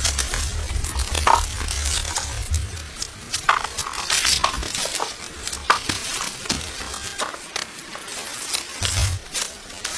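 Dry corn stalks, leaves and husks crackling and rustling, with repeated sharp snaps, as corn is harvested by hand. A low rumble runs under the first few seconds and comes back briefly near the end.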